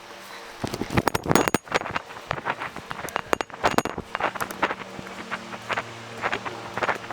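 Footsteps and rustling of people walking a trail: irregular crunches and clicks, with a faint steady low hum underneath.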